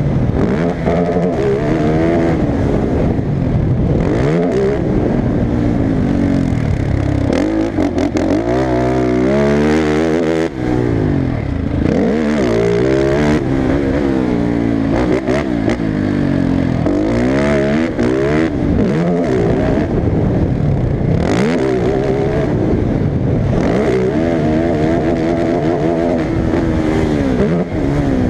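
Motocross dirt bike engines revving up and down over and over as riders open and close the throttle and shift gears, with at times more than one bike's engine heard at once.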